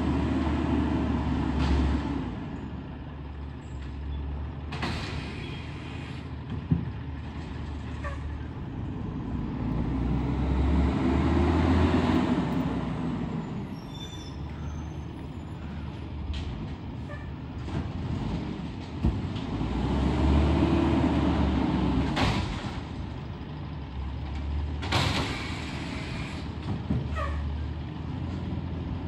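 Garbage truck engine running, its rumble swelling about every ten seconds. Several short air hisses cut in.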